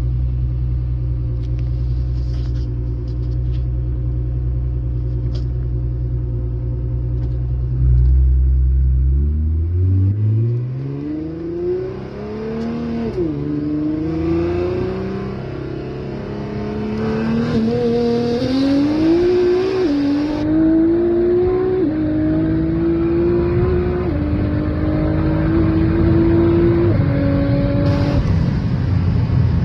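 Twin-turbocharged sports car engine cruising steadily for about eight seconds at a roll, then going to full throttle. The pitch climbs through the gears, dropping back at each of about five or six upshifts, in a hard pull to around 190 mph.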